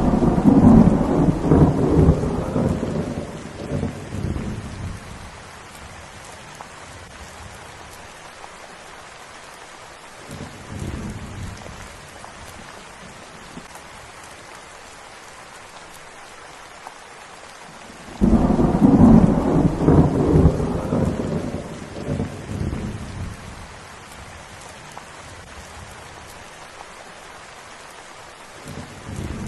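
Steady rain with rolling thunder: a loud rumble right at the start and another about two-thirds of the way through, each dying away over about five seconds, with fainter rumbles between them.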